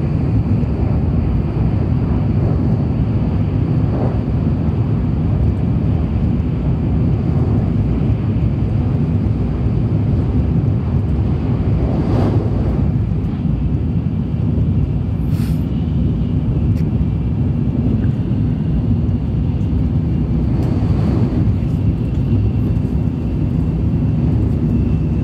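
Tokaido Shinkansen bullet train running, heard inside the passenger car as a steady low rumble and rush, with a few faint knocks.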